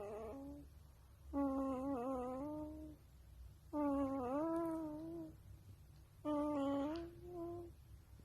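Wolf pup howling: a series of drawn-out, wavering calls, each about a second and a half long, with short pauses between them.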